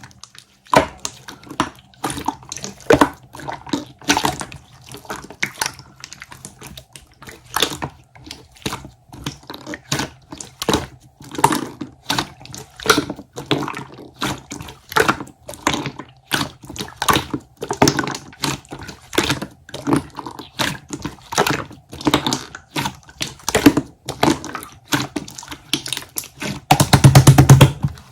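Clear slime with white marbling being played with, giving a string of wet clicks and pops at uneven spacing, one to three a second, with a dense run of rapid crackling near the end.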